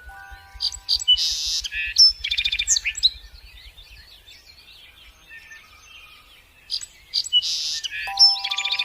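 Small birds chirping in quick, high calls, busiest in two spells about a second in and again near the end. Soft chime-like music notes sound at the start and again near the end.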